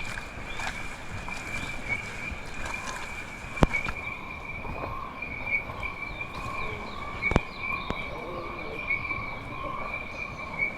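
Steady high-pitched drone of rainforest insects, joined by a second lower drone from about four seconds in. Two sharp clicks or knocks cut through, a few seconds apart.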